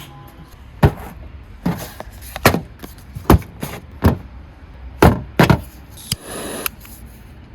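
A series of about eight sharp knocks at irregular intervals, followed near the end by a brief scraping rustle.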